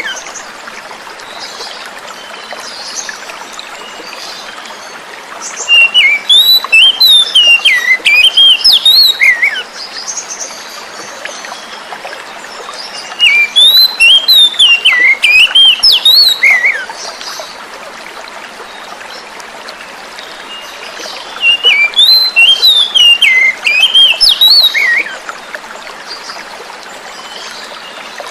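Oriental magpie-robin singing three phrases of rapid, varied whistled notes about eight seconds apart, over a steady rush of flowing water.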